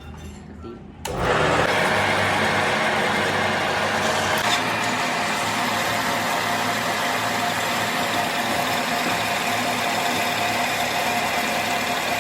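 A motor-driven workshop machine starts suddenly about a second in and then runs steadily.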